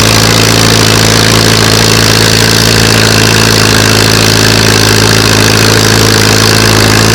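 Allis-Chalmers tractor engine running steadily under load as it pulls a two-row plow through the field.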